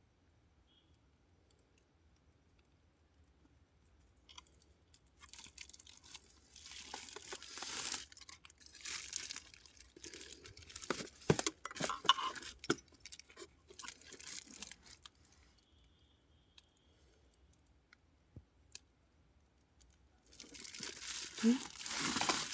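Handling noise: crinkling and rustling of packaging with sharp clicks and knocks. It comes in two spells, one from about five seconds to fifteen seconds and another starting near the end.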